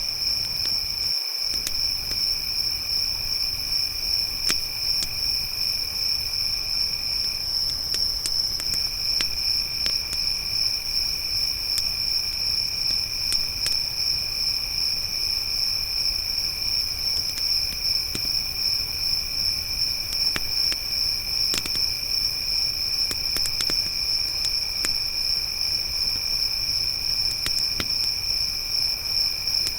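Crickets trilling steadily in a high continuous chorus, with a second, lower insect trill that breaks off for a moment about eight seconds in. Scattered faint crackles from a wood campfire come through underneath.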